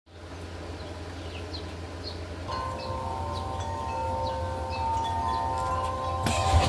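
Wind chimes ringing in the wind, their tones starting about two and a half seconds in and holding, over a steady low rumble of wind, with a brief louder gust near the end.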